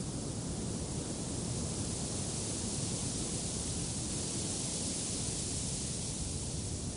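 Steady wind blowing: an even hiss over a low rumble, swelling slightly in the middle.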